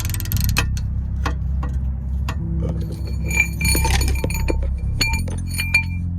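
Metal hand tools clicking and clinking against the exhaust hardware, with several ringing metallic pings in the second half. Background music with low bass notes plays throughout.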